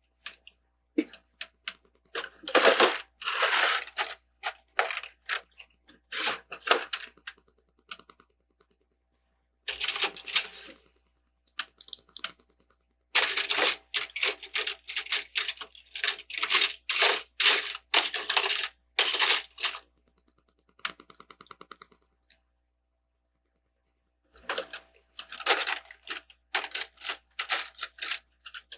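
Plastic Lego bricks clicking and rattling against each other as loose pieces are handled and rummaged through, in bursts of clatter with short pauses between.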